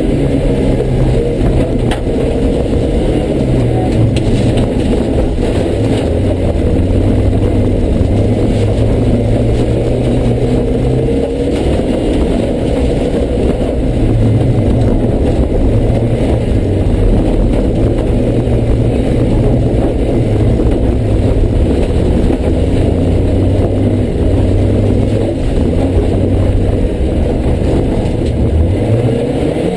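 Mazda Miata rally car's four-cylinder engine driven hard on a dirt course, its pitch stepping up and down repeatedly over a rough noisy wash. Near the end the revs climb sharply.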